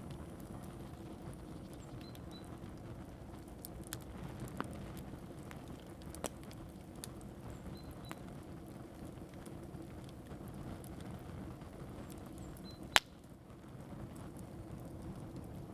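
Sporadic sharp clicks and pops, one much louder about thirteen seconds in, over a steady low background noise, with a few faint short high chirps.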